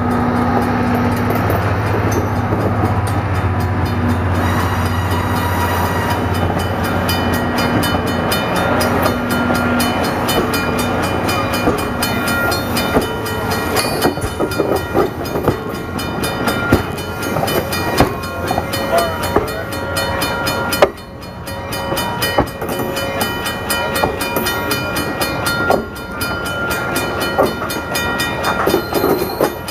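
Passenger train cars rolling past close by: steel wheels clicking and clattering over the rails, with steady ringing tones. The locomotive's low engine hum fades over the first few seconds, and the noise dips briefly twice as gaps between cars pass.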